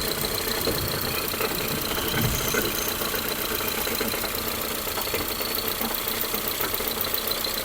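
Ford Fusion 2.0 EcoBoost engine idling steadily with a knocking rattle. The mechanic diagnoses the noise as a broken flywheel ring gear, not an engine fault.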